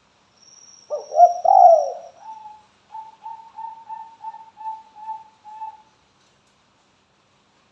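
Spotted dove calling: a loud gliding coo, then a run of about nine short, even coos at roughly three a second that trail off.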